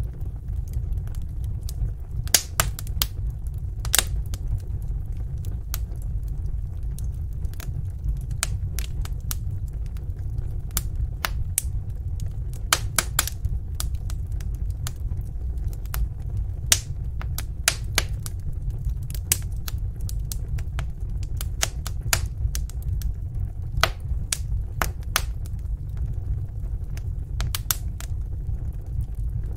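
Wood fire in a fireplace crackling: irregular sharp pops and snaps, some in quick clusters, over a steady low rumble of the burning.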